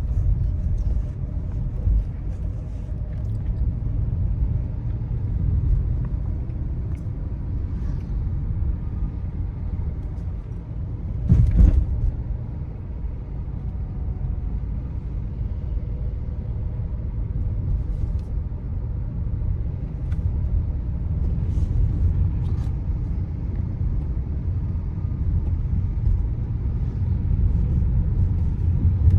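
Steady low rumble of a Hyundai Creta driving on the road, with a sudden louder thump a little over a third of the way through and a few faint ticks.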